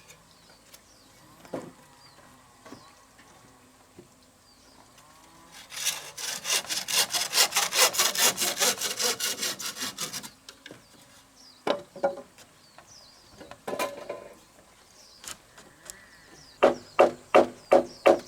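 Hand saw cutting wood in a run of quick, even strokes lasting about four seconds, with scattered single knocks of wood before and after. Near the end, another run of louder strokes begins, about three a second.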